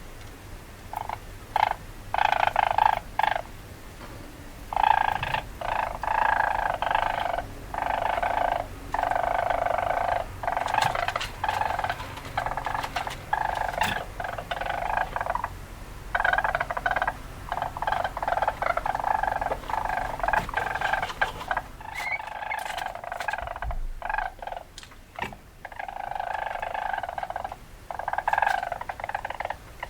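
Weasel calling: repeated bursts of buzzy chattering, each lasting under a second to a couple of seconds, with short gaps between. There is a quieter stretch with a few clicks past the middle.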